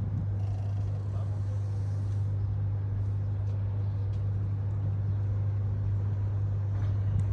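Motor yacht's engines running with a steady low hum.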